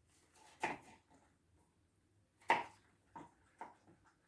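Knife cutting pumpkin on a cutting board: a handful of separate, irregular knocks, the loudest about two and a half seconds in.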